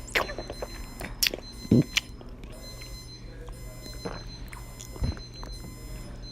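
Designed sound collage made to be uncomfortable: steady high-pitched electronic tones that switch on and off over a low hum, broken by sharp clicks and knocks, the loudest of them between one and two seconds in.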